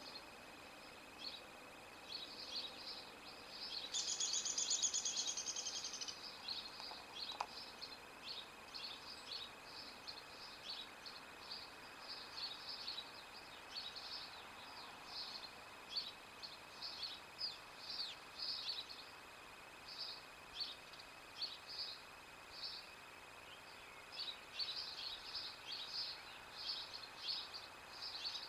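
Small songbirds chirping in short, scattered calls, with one louder, longer call of about two seconds starting about four seconds in.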